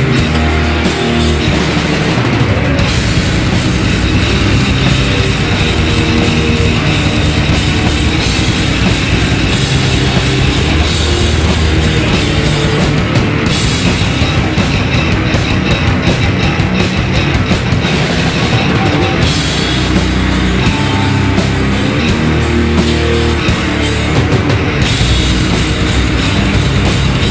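Live heavy metal band playing loud: distorted guitars, bass and fast drumming, with the texture shifting a few times as the song moves between sections.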